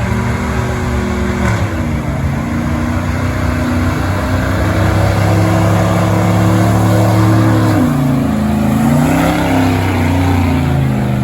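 Gasoline engine of a stock truck running hard at high revs under load while pulling a sled. Its pitch dips about two seconds in, holds steady, then wavers up and down near the end.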